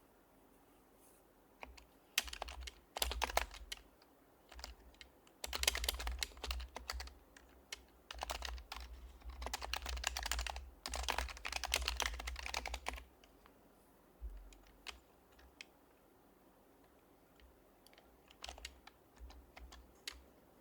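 Typing on an HHKB Professional HYBRID Type-S keyboard with silenced Topre switches: soft, quick key clicks in several bursts of rapid typing, then slower, scattered keystrokes near the end.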